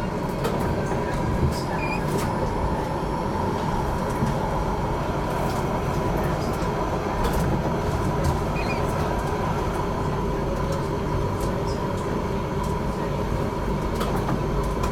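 HTM GTL8 articulated tram running along the track, heard from on board: a steady rumble with a constant whine and scattered short clicks from the wheels and rails.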